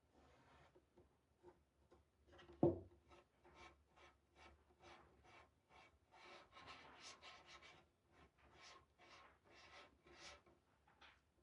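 Faint, quick strokes of a paintbrush spreading paint, about two a second, with one sharp knock about two and a half seconds in.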